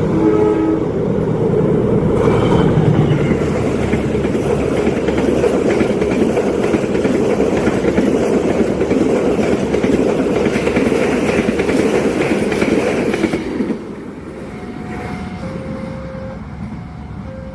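A train passing close by at a level crossing, a loud, steady rush and clatter of wheels and cars that drops away suddenly as the last car clears, about two-thirds of the way in. After that, a crossing warning signal sounds alternating two-note tones.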